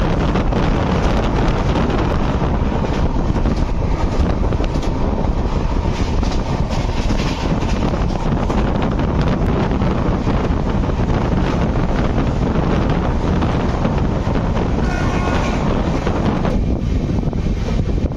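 Express passenger train running at speed, heard from an open coach door: steady rumble and rattle of the wheels on the track, with wind blowing hard on the microphone. A short pitched tone sounds briefly about three-quarters of the way through.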